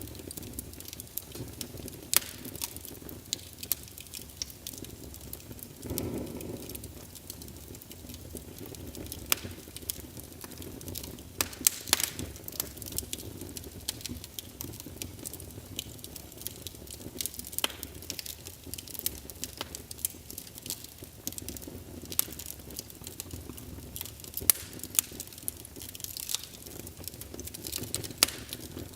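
Wood logs burning in a fireplace: irregular sharp crackles and pops over a steady low rush of flame, with a brief louder low surge about six seconds in.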